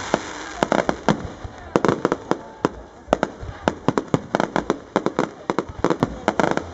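Fireworks display: a rapid, irregular volley of sharp bangs and crackles, several a second, with hissing in between.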